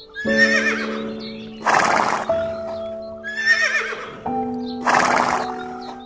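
A horse whinnying twice. Each call is a quavering high neigh ending in a loud breathy burst, over background music with sustained chords.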